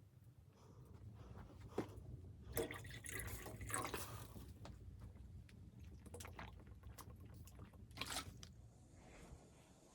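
Scattered small clicks and short rustles over a low steady rumble, busiest about three seconds in and again near the end.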